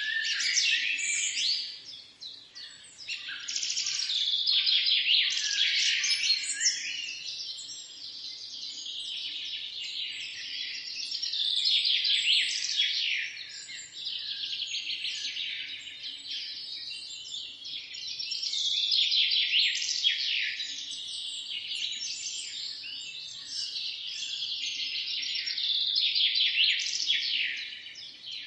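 A dense chorus of many birds chirping and singing at once, with rapid overlapping high chirps and trills. The chorus swells and eases in waves every several seconds.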